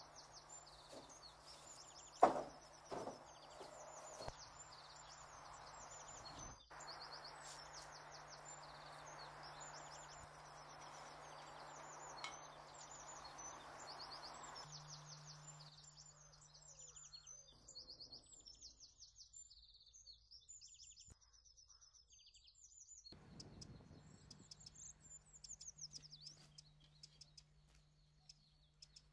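Small birds chirping and twittering over and over, with a few sharp knocks about two to four seconds in, the first of them the loudest.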